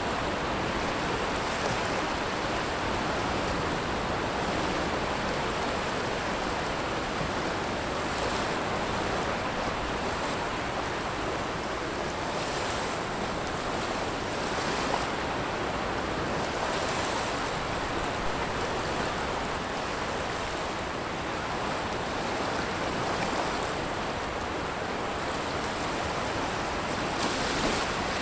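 Sea waves washing onto a pebble beach in a continuous wash of surf. A high, hissing edge brightens briefly several times as the water runs over the stones.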